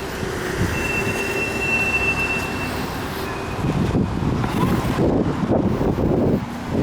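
Strong wind buffeting the microphone as a low rumble, with a thin, high, steady squeal starting about a second in and lasting about two seconds.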